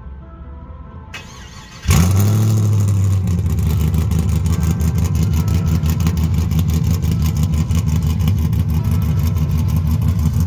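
Pontiac GTO V8 starting about two seconds in, flaring up briefly and then settling into a rhythmic, choppy idle from its aftermarket Texas Speed stage-two camshaft.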